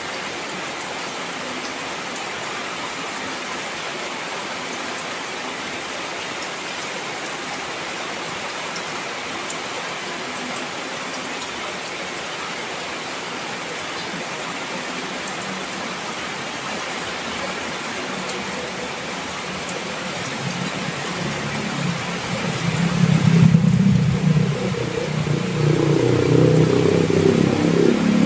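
Steady heavy rain. Near the end a louder low rumble swells up over the rain and keeps going.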